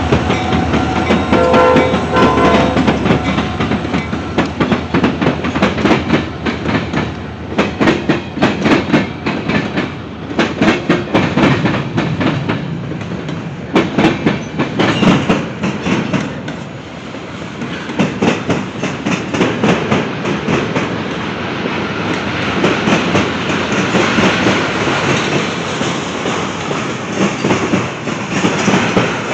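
Freight train rolling past, its car wheels clacking in quick runs over rail joints above a steady rumble. A horn sounds briefly in the first few seconds.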